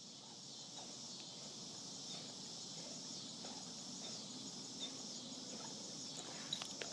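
Faint, steady high-pitched chorus of insects.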